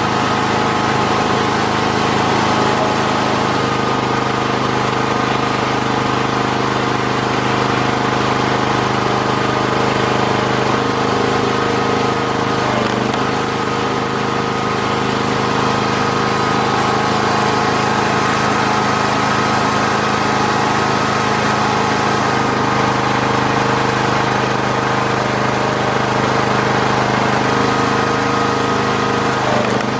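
Engine of a 40-ton hydraulic log splitter running steadily, driving the hydraulic pump, with only slight changes in its note as it works.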